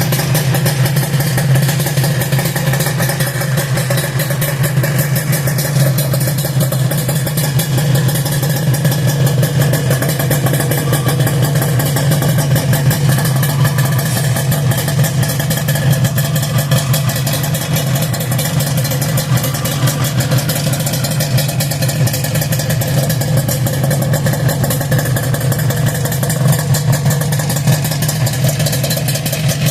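Suzuki RG250Γ's two-stroke parallel-twin engine idling steadily through an aftermarket muffler.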